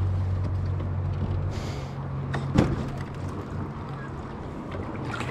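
A steady low engine hum that eases off slightly after about two seconds, with a brief hiss and a single sharp knock partway through.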